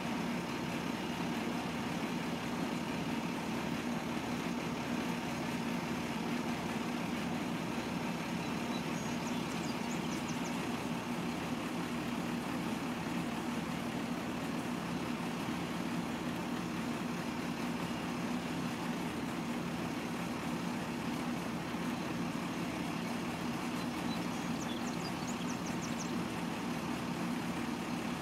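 Truck engine idling steadily, a constant low hum. Faint short high chirps come twice, about a third of the way in and near the end.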